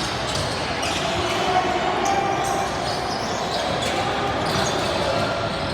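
Basketball game play in a gym: a ball bouncing and short knocks and squeaks on the court over a steady murmur in an echoing hall.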